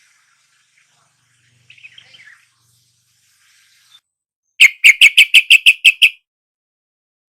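Yellow-vented bulbul calling: after some faint twittering, a fast run of about ten loud, sharp chattering notes lasting about a second and a half.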